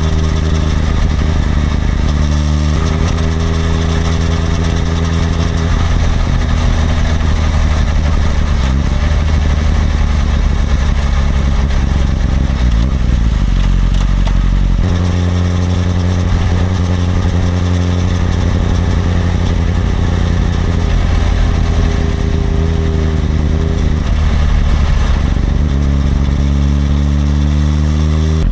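Suzuki GSX-R1000R's inline-four engine running under way. Its note holds steady for long stretches and shifts in pitch a few times, rising in revs near the end, over a steady rush of wind noise.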